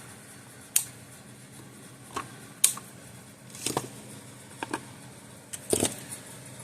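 Flush wire cutters snipping the excess leads off freshly soldered components on a circuit board: a series of sharp, separate snips, some in quick pairs.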